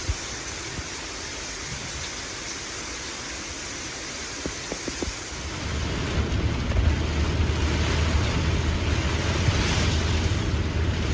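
Steady hiss of water from the heavy rain and flooding, with a low rumble added from about halfway through.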